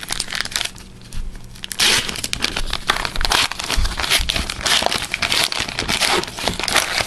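Foil trading card pack being torn open and crinkled by hand, an irregular run of crackling and rustling that grows busier after about two seconds.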